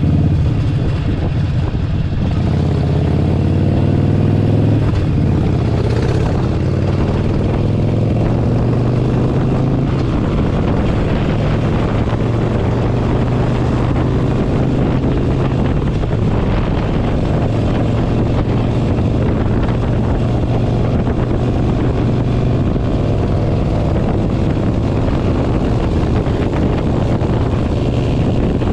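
Harley-Davidson Forty-Eight Sportster 1200's air-cooled V-twin engine running under way. Its pitch rises over the first few seconds as the bike accelerates, then holds steady at cruise.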